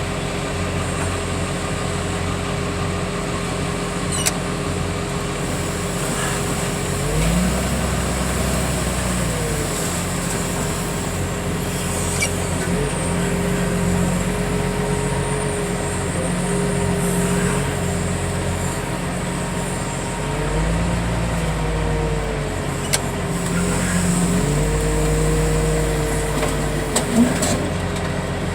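Engine of a loading machine running steadily under load, its pitch rising and falling in several revs (about a quarter of the way in, around two-thirds through, and again near the end) as it lifts a heavy bundle of crushed cars. A few short knocks.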